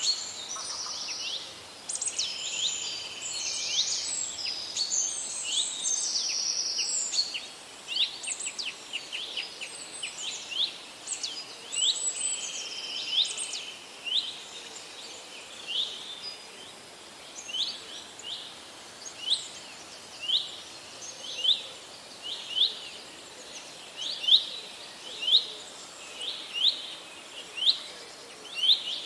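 Several forest songbirds singing over one another, with quick trills and high chirps. From about halfway, one bird takes over with a short upswept note repeated roughly once a second, getting louder toward the end.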